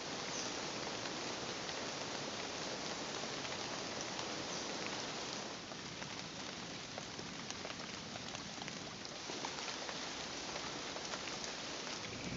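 Steady rain falling on foliage and ground, an even hiss with fine scattered drop ticks.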